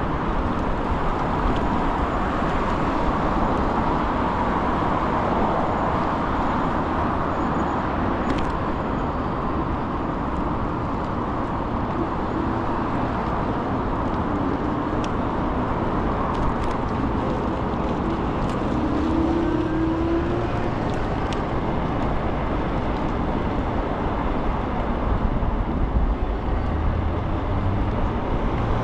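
Steady wind and road rumble while riding an Ikingi S6 Pro electric scooter, with a few faint ticks; no brake squeal.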